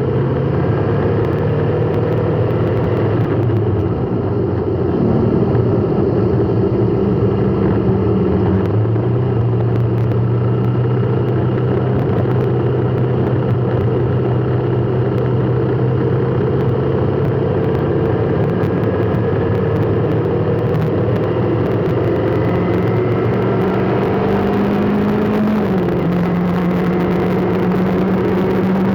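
A motor vehicle's engine running steadily, its hum drifting slowly up and down in pitch as in slow traffic.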